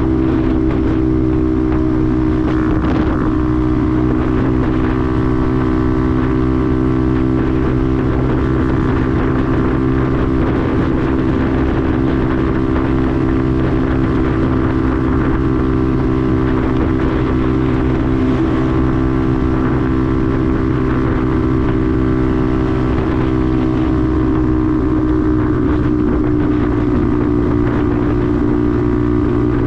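Benelli TNT 125's single-cylinder four-stroke engine running at a steady, nearly constant speed while riding, with wind noise on the microphone.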